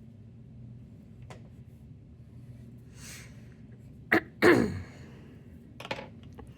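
A person sneezing once, loud and brief, about four and a half seconds in, with a short sharp intake just before it.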